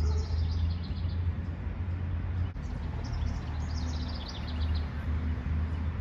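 A songbird singing twice, each song a quick series of high notes falling in pitch, the second starting about three seconds in. A steady low rumble runs underneath.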